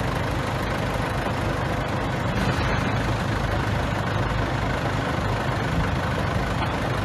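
Bulldozer's diesel engine running at a steady pace.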